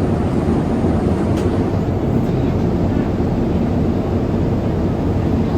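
Cabin noise of a Boeing 787-8 in flight: the engines and the airflow over the fuselage heard from inside the cabin as a steady low rumble.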